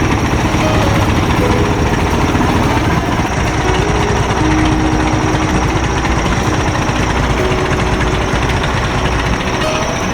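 A vehicle engine running steadily with a dense, loud rumble.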